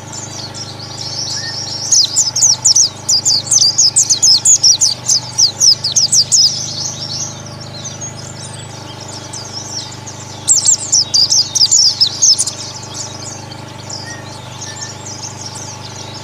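A flock of white-eyes (pleci, Zosterops) chirping, rapid high twittering notes from many birds at once. It comes in two loud spells, from about two seconds in to six and a half and again around ten to twelve seconds, with softer twittering between, over a steady low hum.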